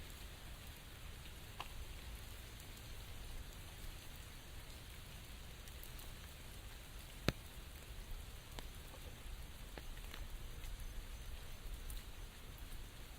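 Steady rain falling, with scattered individual drops tapping close by and one sharper, louder tap about seven seconds in.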